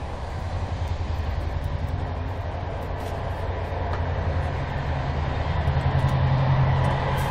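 Running noise inside a moving express train's open-plan passenger coach: a steady low rumble of wheels on the track, growing louder near the end as the coach's end door gets closer.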